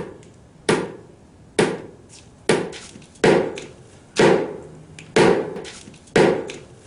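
Heavy blows struck by hand with a tool, a dull knock about once a second, seven in all, each dying away quickly. It is slow manual work of the kind a power drill would do more easily.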